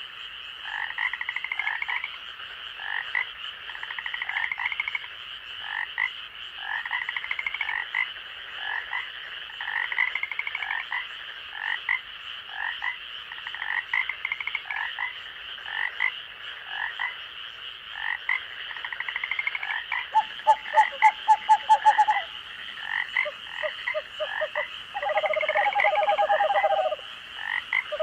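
A night chorus of frogs in the forest: short pulsed calls repeat every second or two over a steady high insect drone. About twenty seconds in, a louder call of rapid pulses sounds for a couple of seconds, and a lower pulsed call follows near the end.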